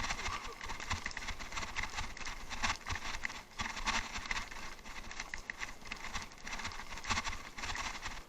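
Bicycle ridden over rough off-road ground: a dense, irregular run of clicks and rattles from the tyres and the bike's parts, over a low rumble.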